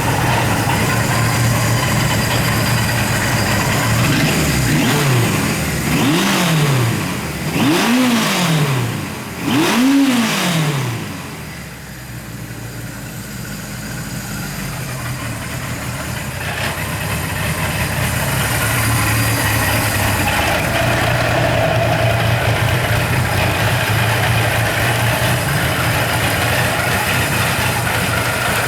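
Kawasaki Z1000's inline-four engine idling, blipped four times in quick succession with the revs rising and falling each time, then settling back to a steady idle.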